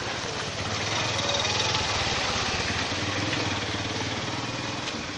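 A small vehicle engine running, louder about a second in, over a steady hiss of rain on the street.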